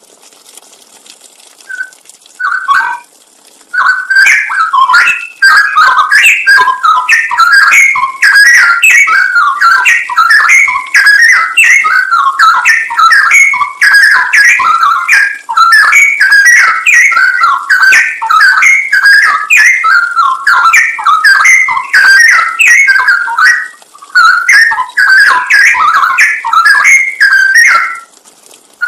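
Straw-headed bulbul (cucak rowo) singing loudly: a long, quick run of whistled phrases that rise and fall in pitch, starting about two seconds in, with two short pauses near the end.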